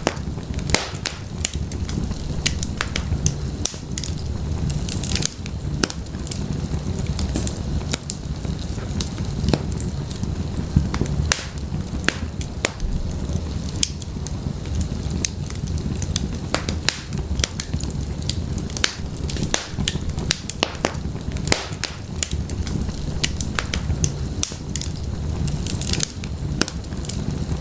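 Wood fire burning in an open fireplace: many irregular sharp crackles and pops from the firewood over a steady low rumble of the flames.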